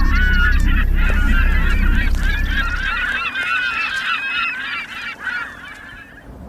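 A flock of geese honking, with many overlapping calls over a low rumble that dies away about three seconds in. The calls grow fainter and fade out near the end.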